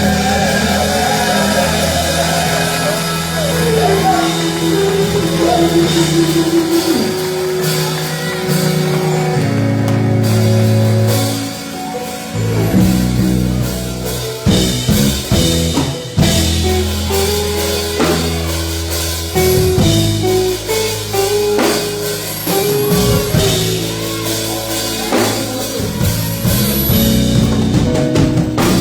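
Live gospel band playing with electric guitar, bass and drum kit, with some singing; the drum hits come through more strongly in the second half.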